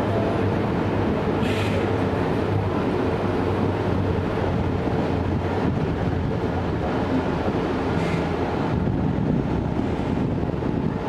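Deutsche Bahn ICE electric train running at the station: a steady rumble with a low hum, and two short hisses, one about a second and a half in and one about eight seconds in.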